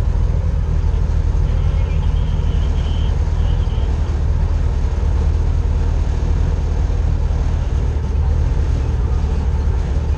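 Airboat's engine and large air propeller running steadily at speed, a loud unbroken low drone.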